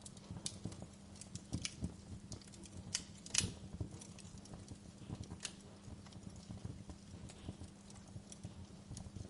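Wood fire crackling in a fireplace: irregular sharp pops and snaps, one louder pop about three and a half seconds in, over a faint steady low hum.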